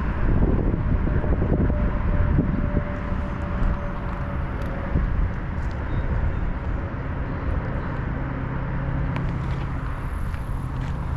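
Wind buffeting a chest-mounted action camera's microphone, with a mountain bike's tyres rolling over an off-road trail; a steady rumble heaviest in the low end.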